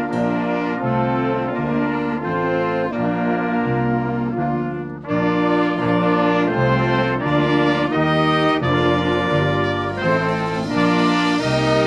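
Student brass ensemble playing a chordal passage, the bass line stepping to a new note about twice a second. The sound dips briefly about five seconds in, then the full band comes back in louder.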